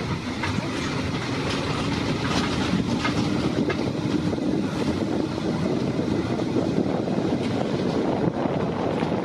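Train running along the track: a steady rolling noise with scattered clicks of the wheels over the rails.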